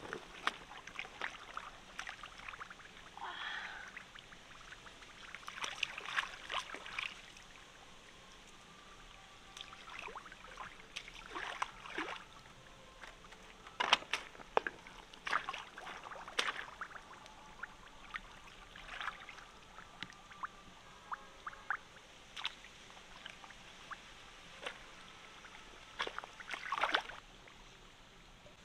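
Water splashing and trickling in irregular bursts, with scattered sharp clicks and knocks in between.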